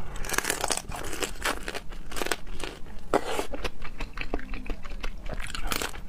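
Close-miked crinkling, tearing and crunching: a dense run of sharp clicks and short rustles as food and its wrapping are handled and bitten into.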